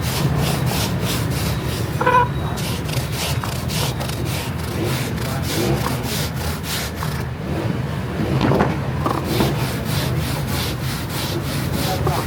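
Rhythmic back-and-forth rubbing strokes, about two or three a second, like hand sanding or rasping, over a steady low hum.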